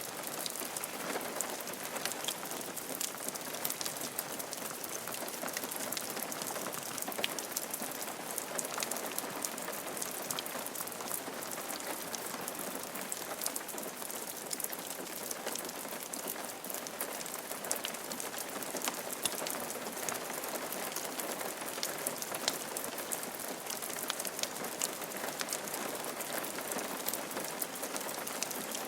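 Steady rain falling on a roof: an even hiss with a dense patter of individual drops ticking through it.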